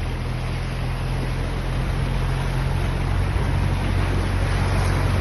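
Steady rushing noise of a heavy rainstorm and water, with a low, steady engine hum underneath.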